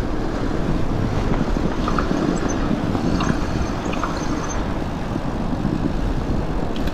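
A steady rush of wind noise on the microphone, mixed with the rolling noise of a fat bike's tyres coasting downhill through fresh snow under rear brake, with a few faint ticks.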